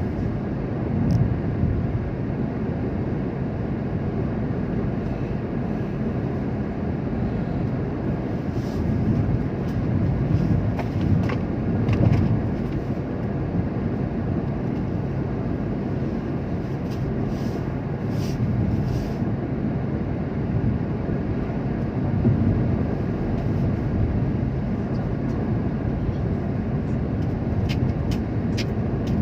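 Steady engine and tyre noise of a car driving along a road.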